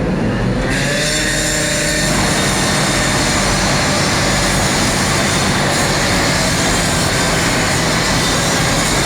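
Steady loud rushing noise of running machinery, which sets in about a second in and then holds steady with a faint tone in it.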